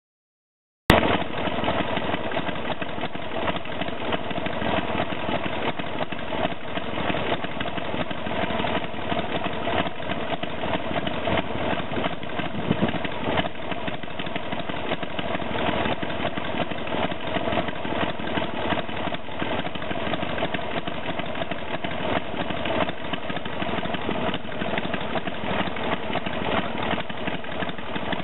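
A 2000 Harley-Davidson Sportster 883 Hugger's air-cooled V-twin idling steadily through tapered mufflers, cutting in suddenly about a second in.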